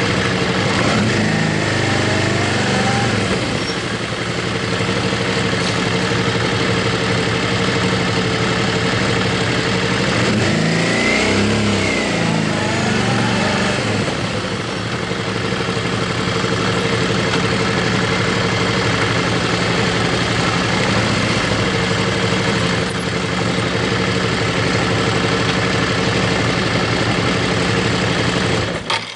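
Motorcycle engine running under way, with wind and road noise. The engine pitch shifts twice, as the revs change. The sound cuts off abruptly near the end.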